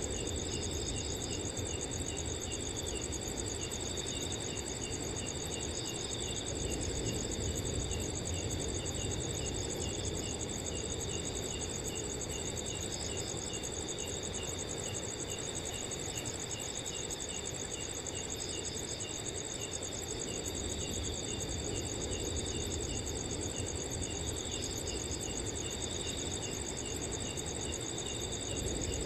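Several crickets calling at once: a steady, high, continuous trill with a rapid, regular chirping below it, over a low, even rustle of wind.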